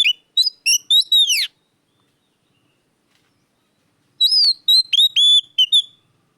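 Oriental magpie-robin singing in two loud phrases of clear, whistled notes with quick swoops in pitch, separated by a pause of a few seconds.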